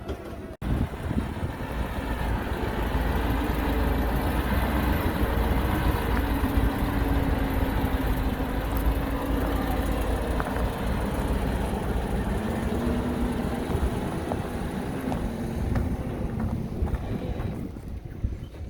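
Heavy diesel engine of an earthmoving machine running steadily with a deep rumble, its pitch wavering a little, then fading away near the end.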